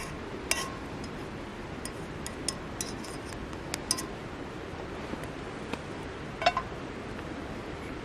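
Light clinks of metal utensils against camp cookware or dishes: a dozen or so irregular taps with a short ringing note, the loudest about six and a half seconds in, over a steady hiss.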